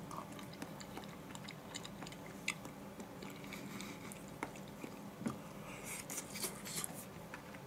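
A person quietly chewing a mouthful of a stir-fried mushroom and deep-fried tofu rice bowl, with scattered small wet clicks and smacks of the mouth.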